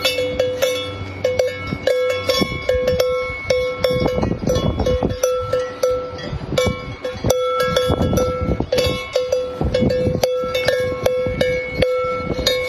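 Many metal bells clanking and jangling together, with irregular overlapping strikes that keep ringing.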